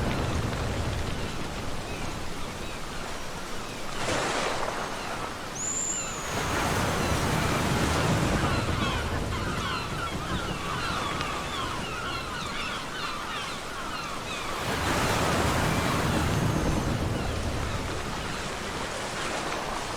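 Ocean waves breaking on a beach in repeated swells, loudest about six to nine seconds in and again about fifteen seconds in, with the fizzing hiss of water washing over the sand between them. A single short, high, falling bird call sounds about five seconds in.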